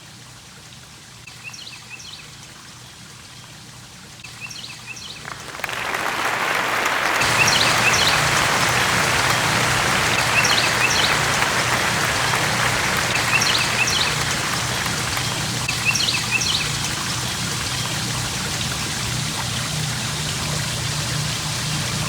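A steady rushing noise, like running water, that is faint at first and swells loud between about five and seven seconds in. A low hum runs underneath it, and a short high chirp repeats every two to three seconds.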